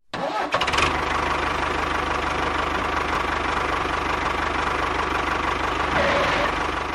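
A small motor running steadily, a dense rattling whir over a low hum.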